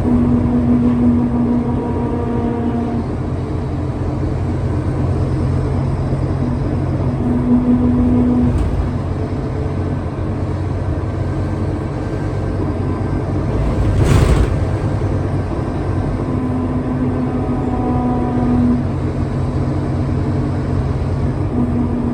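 Scania K320UA city bus running along with its diesel engine, a steady low rumble with a whine that comes and goes several times. There is a single thump about two-thirds of the way through.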